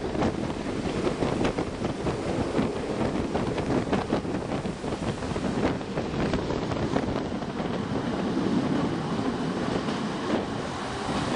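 Train running along the track, heard from on board by an open window: a steady rumble of wheels on rails with irregular clicks and rattles, and wind buffeting the microphone.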